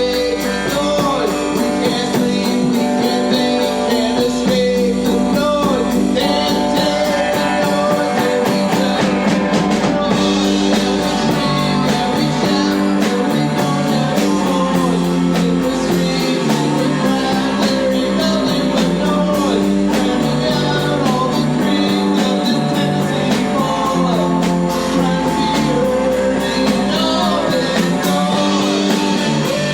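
Rock band playing live: electric guitar and bass over drums, with a singing voice.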